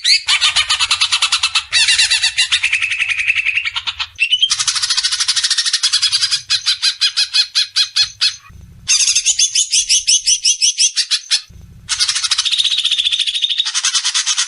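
Songbird singing loud, fast phrases of rapidly repeated chattering notes, broken by two short pauses, a little after eight seconds and again at about eleven and a half seconds.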